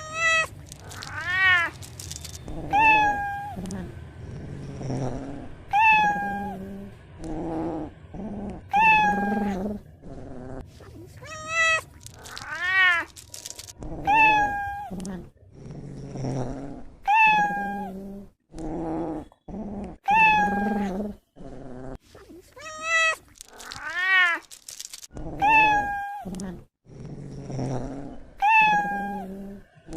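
Cat meowing over and over, a short call every one to three seconds. Most calls fall in pitch, a few are longer and waver. Low growly sounds come between the calls.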